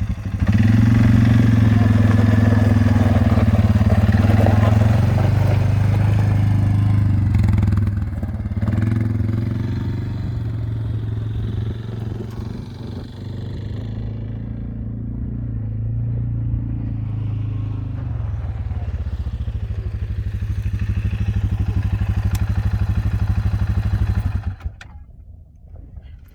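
Quad bike engine running under way, with its engine note easing and picking up as it is ridden. It drops away sharply near the end.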